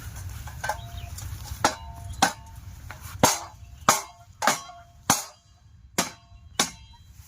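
A hammer striking metal: about nine sharp blows, roughly one every two-thirds of a second, each with a short metallic ring, as a fitting on a diesel water-pump setup is knocked into place.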